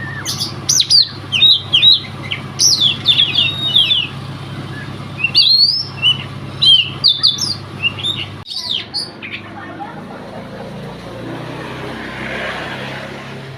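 Oriental magpie-robin (kacer) singing a fast run of sharp whistles and chirps over a steady low hum. The song breaks off about eight seconds in, leaving a fainter hiss.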